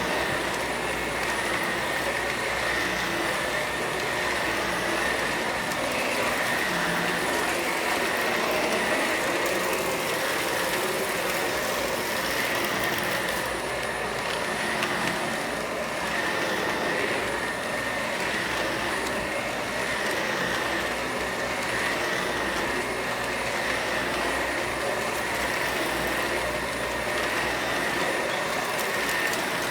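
Vacuum cleaner running steadily, its motor giving a constant high whine over a rushing hiss of air.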